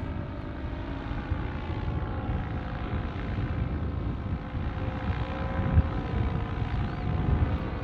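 Distant paramotor engine droning steadily, its pitch drifting slightly, under a heavy rumble of strong wind buffeting the microphone.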